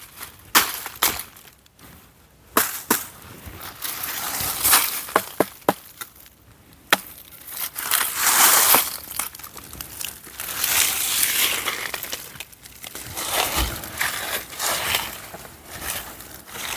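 Dry leaf litter and twigs crunching underfoot and being handled, with many sharp snaps and cracks of dry wood breaking.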